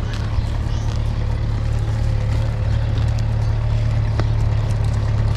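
A steady low hum, like a motor running, with an even rushing noise over it and no clear change.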